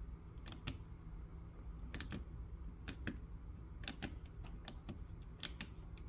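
A series of light, sharp clicks and taps at uneven intervals, some in quick pairs, over a low steady room hum.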